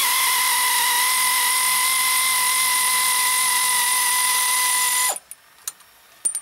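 Power tool running steadily with an even whine for about five seconds as it spins the loosened hub nut off the front wheel hub, then stopping abruptly. A few faint clicks follow.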